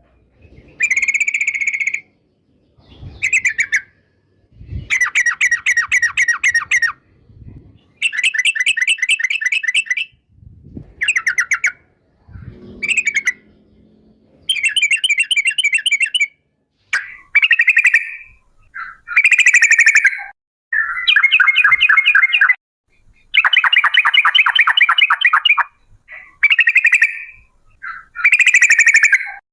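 Yellow-vented bulbul (trucukan) singing in rapid, bubbling phrases of one to two seconds each, repeated about a dozen times with short pauses between them.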